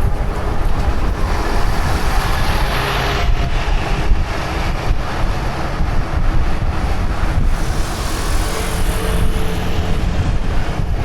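Wind buffeting the microphone of a camera on a moving bicycle: a continuous low rumble, with a hiss that swells about two to three seconds in.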